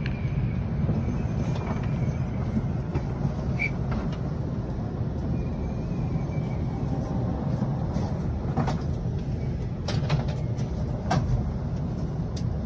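Steady low rumble of a Shinkansen bullet train running through a station, heard from inside the passenger cabin. A few sharp clicks stand out in the second half.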